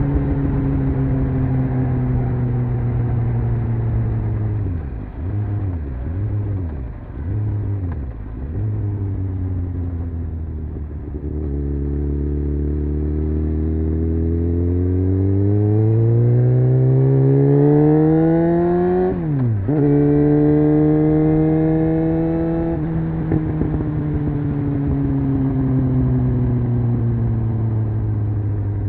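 Honda CBR600F's inline-four engine heard onboard. It cruises and eases off, then gives several quick throttle blips. Then it accelerates hard, the revs climbing to a sharp drop at an upshift about two-thirds in, pulling again through another shift before the revs fall away as the throttle is closed.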